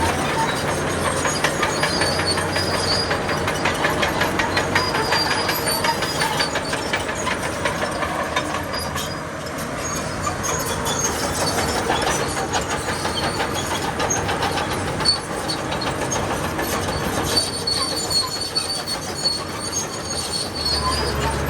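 Crawler bulldozer's steel tracks clattering in a rapid, continuous clicking as it travels, with high-pitched squeals from the track running gear now and then, loudest near the start and again toward the end.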